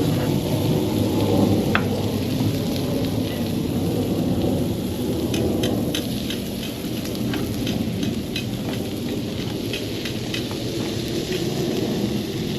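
Food sizzling on a wood- or charcoal-fired grill, with sharp little crackles and pops that grow frequent about five seconds in, over a steady low rumble.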